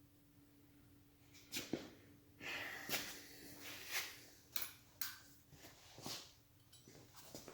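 Irregular clicks, taps and brief scrapes of small parts being handled at a motorcycle taillight, starting about a second and a half in, over a faint steady hum.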